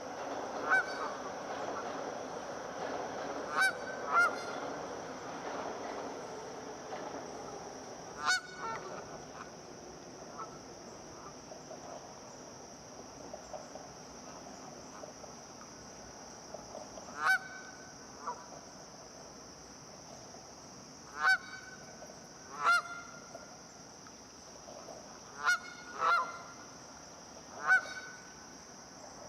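Geese honking: about a dozen loud single honks, several in close pairs, with long pauses between. A softer jumble of calls in the first few seconds fades away.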